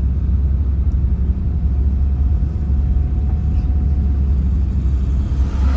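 Vehicle travelling on a highway: a steady low rumble of engine and road noise, with a faint steady whine above it. A rush of noise begins to swell right at the end.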